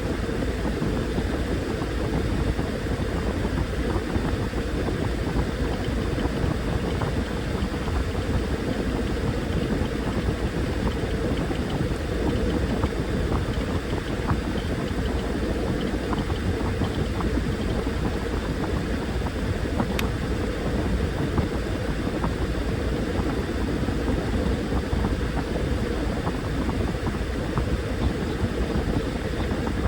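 Washing machine running: a steady churning of water and laundry in the drum over the hum of its motor.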